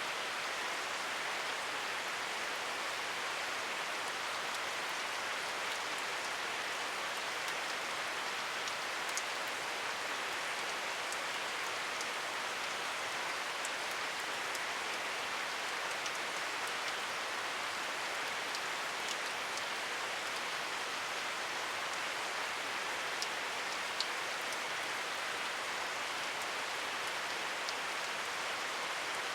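Steady rain, an even hiss with scattered small droplet ticks.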